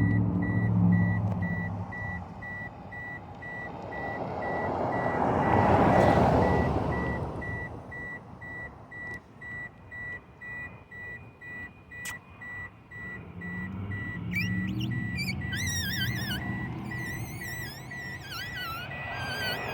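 An airplane on its landing approach passes overhead, its noise swelling to a peak about six seconds in and then fading. A steady, repeating electronic beep, like a reversing alarm, runs throughout, and warbling chirps come in near the end.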